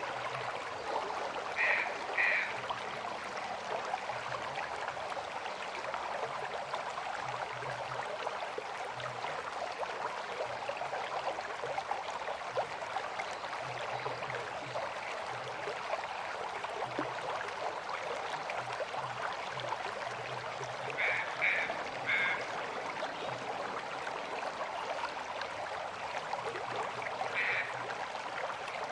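River water flowing steadily in a constant rushing wash. A few short, high calls cut through it: two about two seconds in, three in quick succession about twenty-one seconds in, and one near the end.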